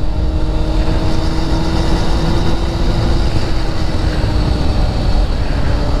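Steady engine drone and road noise from a moving vehicle on the road.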